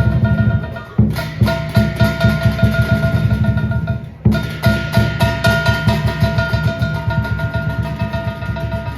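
Percussion music: fast, steady drumming with clacking strokes and a ringing tone held over it, breaking off briefly about a second in and again about four seconds in.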